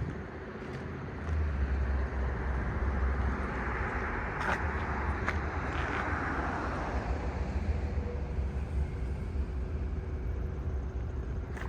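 Street traffic with a steady low rumble. One vehicle passes by, swelling to its loudest about halfway through and then fading.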